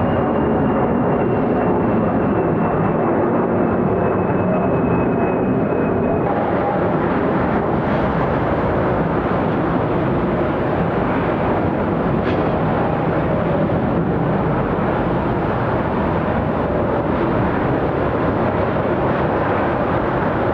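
Jet airliner engine noise, loud and steady, with a faint high whine slowly falling in pitch for about the first six seconds before it stops.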